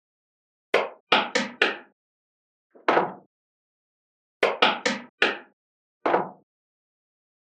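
Small magnetic balls snapping together with sharp clicks, in quick runs of three or four, with single clicks between them.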